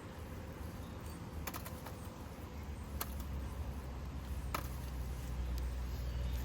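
Wood fire crackling, with a few sharp isolated pops about a second or so apart over a low rumble that grows louder about halfway through.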